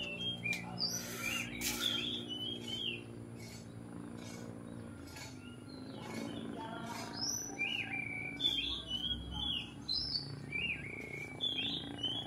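Oriental magpie-robin (kacer) singing: quick runs of varied whistled and chirping phrases, a pause of a few seconds in the middle, then more phrases. A low steady hum lies under the first few seconds.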